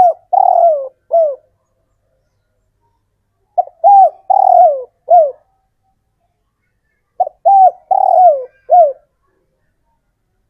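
Male spotted dove cooing its repeated advertising song, the call used to draw a female. The end of one phrase, then two more, about every three and a half seconds; each phrase is a short note, a longer two-part coo and a last note that falls.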